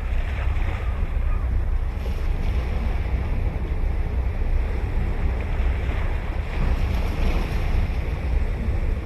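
Ocean surf breaking and washing ashore in slow swells, over a heavy, steady wind rumble on the microphone.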